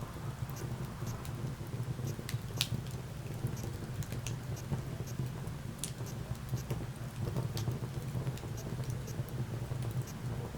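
Wood fire crackling in a fireplace: irregular sharp pops and snaps of burning logs over a steady low background sound.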